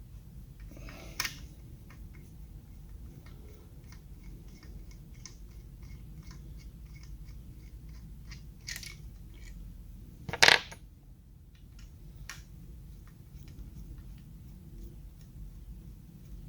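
Small metal tools and engine parts clinking and tapping against each other during hand work on an engine. The sharpest metallic clatter comes about ten and a half seconds in.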